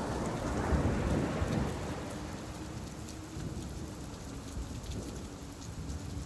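Steady rain falling, with a deep rumble that swells and fades away over the first two seconds.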